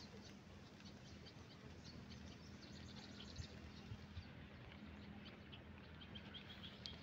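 Faint outdoor field ambience with scattered short, high chirps of small birds.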